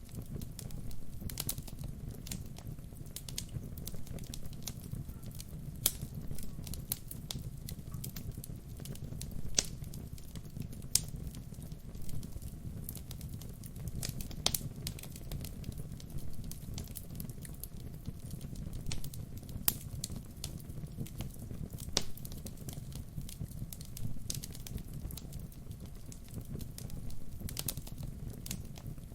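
Wood fire burning: a steady low rush of flames under irregular crackles and sharp pops of burning logs, a few pops much louder than the rest.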